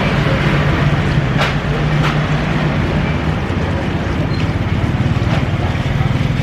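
Steady vehicle engine and traffic noise with a constant low hum, and two short clicks about a second and a half and two seconds in.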